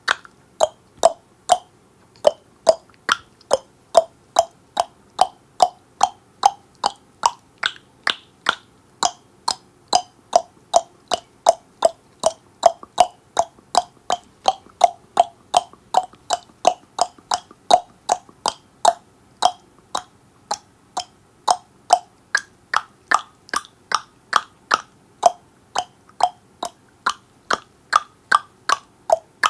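A person clicking their tongue over and over, about two hollow pops a second in an even rhythm, the pitch shifting a little from click to click.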